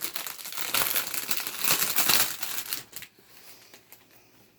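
Plastic wrapping crinkling and crackling as it is handled and pulled off a box, stopping about three seconds in.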